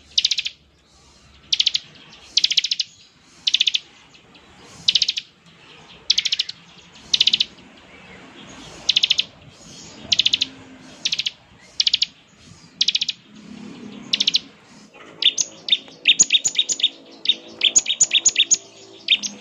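Bar-winged prinia (ciblek) giving its buzzing ngebren call: short high trills repeated about once a second, then about three-quarters of the way through a faster, stuttering run of clipped notes.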